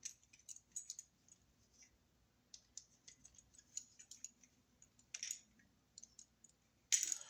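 Faint scattered clicks and small scrapes of a screwdriver and a wall receptacle being handled while its terminal screws are worked, with a brief louder scrape about five seconds in and more handling noise near the end.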